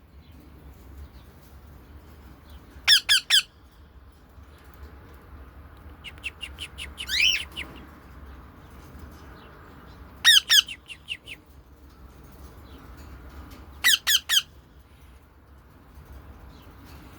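Pet parrots squawking: short, shrill calls in bursts of two or three, heard three times, with a quicker run of chirps and a rising call about halfway through.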